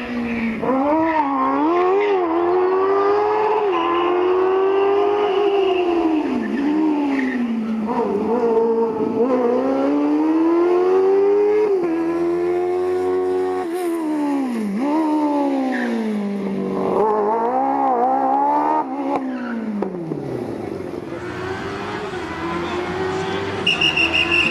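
Smart Fortwo rally car with a swapped Kawasaki Ninja motorcycle engine, revving high, its pitch climbing and dropping again and again. Near the end the revs fall away and it runs lower and quieter.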